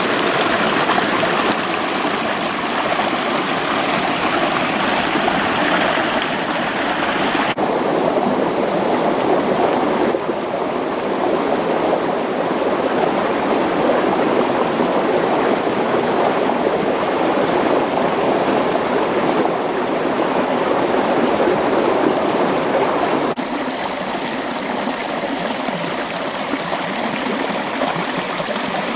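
Creek water flowing with a steady rush. About eight seconds in the sound changes abruptly, turning duller with less hiss, and it switches back some five seconds before the end.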